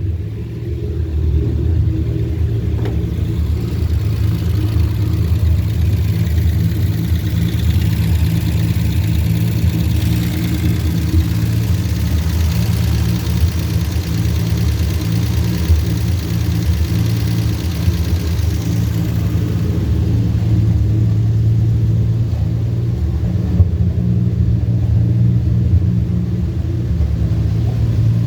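1949 Studebaker's flathead straight-six engine running at a steady idle after a hard-start check, with a light higher whir joining in over the middle stretch.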